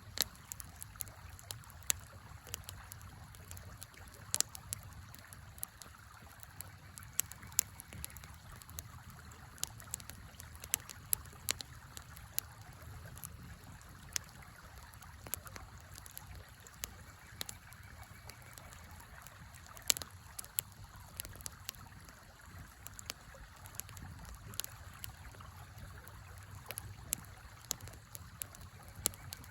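Campfire crackling, with irregular sharp pops several times a second, over the steady rush of a river.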